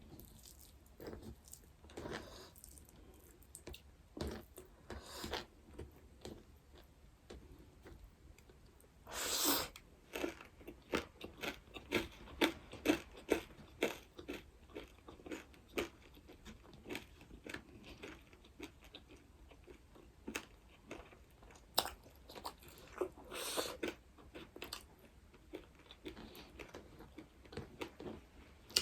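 Close-miked chewing: a person eating with crunchy, wet bites and mouth noises, quick runs of crunches several times a second. A longer noisy rush is heard about nine seconds in.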